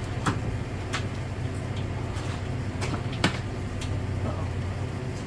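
A few light clicks and knocks, three in all, from handling the truck bed tent's poles and clips, over a steady low hum.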